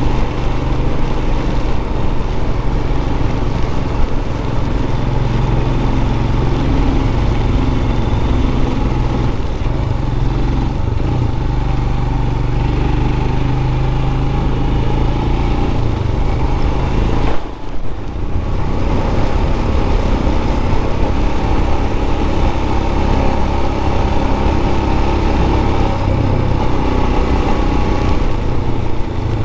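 Royal Enfield 411 cc single-cylinder motorcycle engine running on the move, its note shifting up and down in steps, over steady wind rush. About two-thirds of the way through the sound drops out sharply for under a second, then picks up again.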